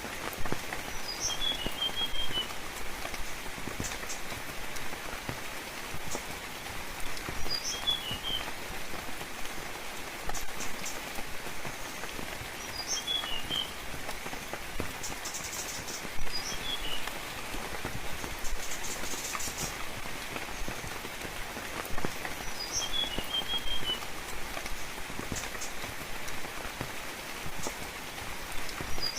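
Steady rain falling, with a small bird repeating a short call: a high note followed by a quick run of lower notes, about every five or six seconds.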